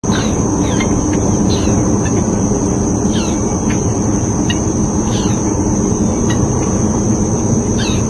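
Loud outdoor nature ambience: a steady low rumble under a constant high-pitched drone, with short falling chirps about once a second.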